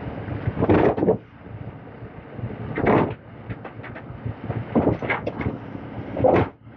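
Demolition excavator handling a load of rubble: engine running under four loud bouts of clattering and scraping as rubble and the steel bucket knock together.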